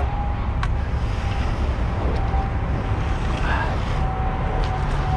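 Concrete mixer truck's engine running steadily on site: a low rumble with a faint steady whine, and a few light clicks.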